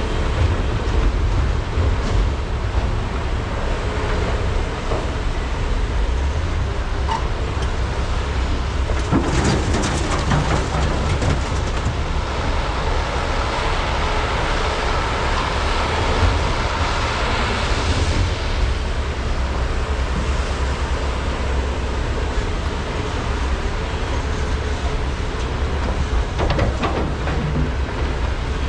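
Large hydraulic mining excavators (Komatsu PC395 and SANY SY485H) working, their diesel engines running in a steady heavy rumble. Sharp clanks and rattles come about nine to eleven seconds in and again near the end.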